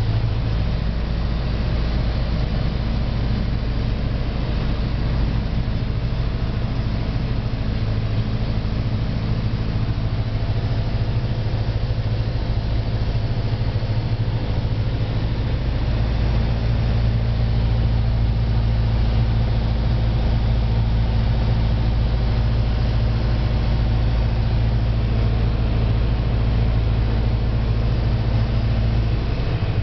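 Steady drone of a small propeller airplane's engine heard from inside the cabin, holding an even pitch throughout.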